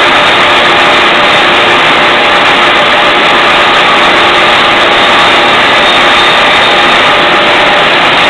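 12-inch Craftsman band saw running with a 3/16-inch blade, cutting a circle in 3/4-inch-thick wood as the board is turned on a circle jig. Loud and steady, with no breaks.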